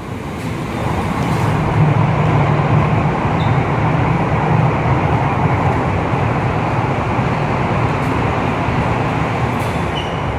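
CR400BF Fuxing high-speed train running along an underground station platform behind glass platform screen doors, a steady loud rushing rumble with a low hum. It builds over the first couple of seconds, holds, and eases slightly near the end.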